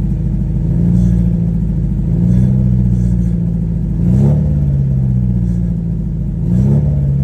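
Honda Accord engine just started and running loud, its pitch rising briefly three times as it is revved. The owner thinks the car sounds like this because the exhaust needs replacing.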